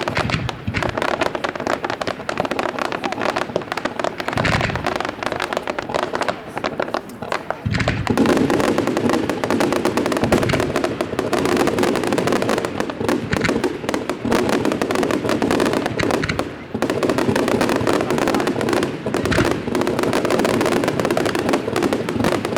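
Display fireworks firing in rapid succession: a dense, continuous crackle of bangs and pops, thicker and louder from about eight seconds in.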